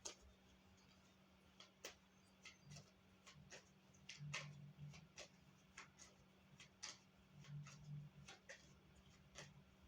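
Tarot cards being handled and laid down: faint, irregular light clicks and ticks in a quiet small room.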